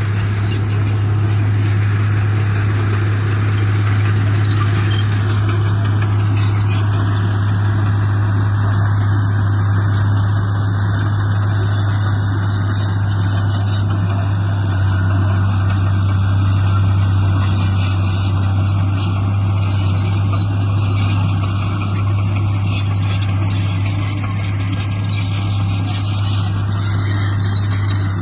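Heavy diesel engine of earthmoving equipment running steadily, with a strong, even low hum.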